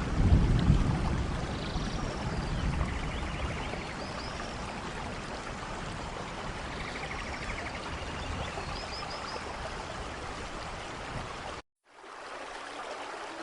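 Steady rain falling as an even hiss of water, with a low rumble in the first second and a few faint high chirps. The sound cuts out abruptly for a moment near the end and comes back softer, without the low rumble.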